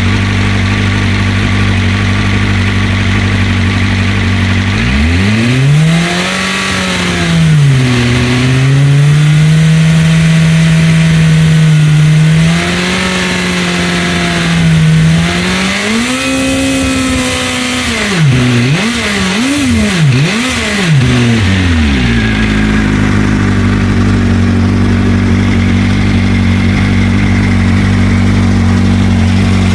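BMW M1000RR's inline-four engine through an Arrow Pista GP titanium slip-on muffler, idling, then revved up about five seconds in and held for several seconds while it warms up. It is raised again, given several quick blips of the throttle, and settles back to a steady idle past the middle.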